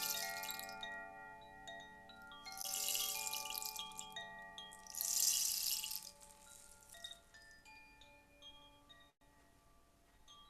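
Chimes ringing: many clear tones struck one after another and left to ring over each other, with two short shimmering swells of jingling about three and five seconds in, dying away toward the end.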